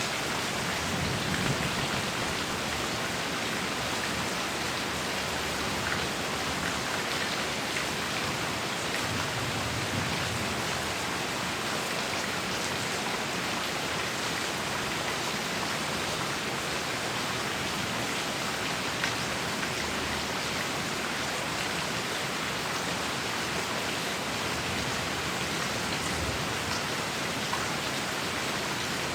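Heavy rain falling steadily: an even, dense hiss with scattered drop ticks.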